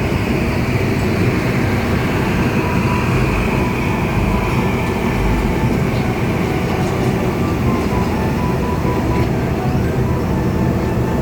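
Heavy diesel engine running steadily, a constant low rumble at an even level.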